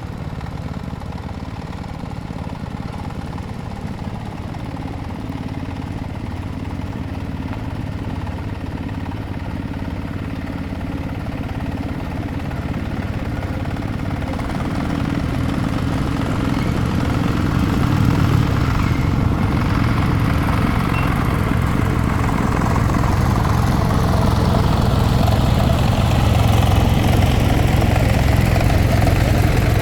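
Engine of a công nông farm tractor-truck running steadily, growing louder about halfway through and again a little later.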